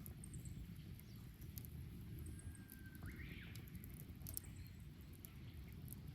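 Wood fire burning: a steady low rush from the flames with sparse, sharp crackles and pops from the burning wood.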